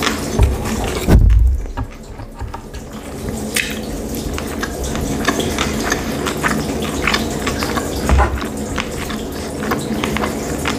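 Close-miked chewing of sushi rolls: a steady run of soft, wet mouth clicks and smacks, with a few low thumps, one near the start, one about a second in and one near the end.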